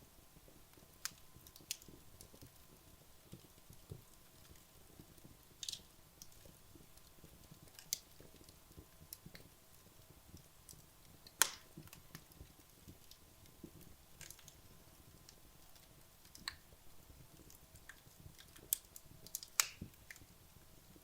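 Wood logs burning in a fireplace: irregular crackles and sharp pops over a quiet low hiss, with the loudest pop about halfway through and a cluster of pops near the end.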